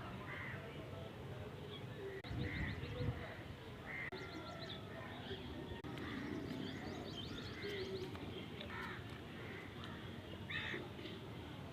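Small birds chirping and calling at intervals, with short chirps and quick rattling trills, over a steady background hiss.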